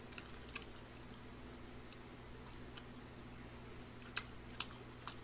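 Quiet chewing of food close to the microphone: a few faint sharp mouth clicks, the two loudest about four seconds in, over a steady low hum.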